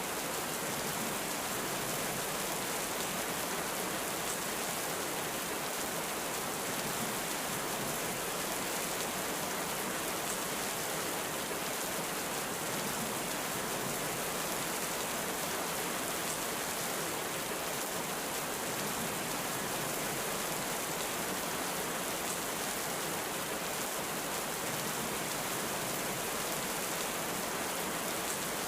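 Heavy rain falling, a steady, even hiss that does not let up, with no thunder.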